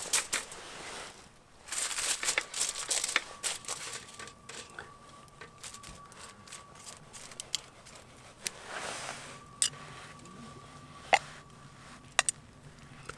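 Rustling and crinkling for the first few seconds, then scattered sharp clicks and taps, with a faint steady whine through the middle.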